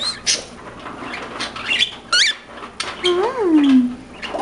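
Cockatiels chirping and whistling, with a short rising whistle about halfway through. Near the end comes a longer, lower call that rises and then falls.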